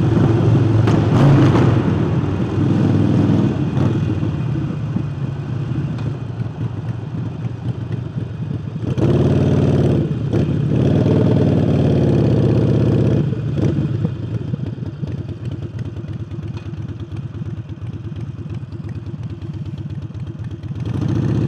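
Harley-Davidson Forty-Eight's air-cooled V-twin, fitted with an aftermarket air intake, running as the bike is ridden. It is loudest right at the start and again for a few seconds from about nine seconds in, with the throttle open, then settles to a lower, steadier note.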